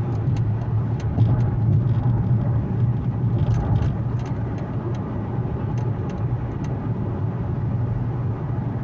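Infiniti Q70 sedan driving: a steady low engine and road hum, with a few faint, scattered ticks.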